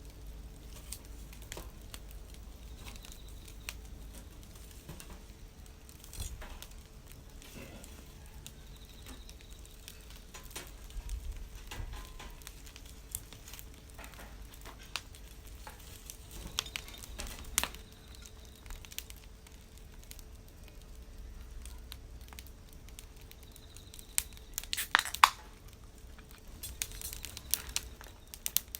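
Wood campfire crackling: irregular small pops and snaps, with a louder cluster of cracks about 25 seconds in.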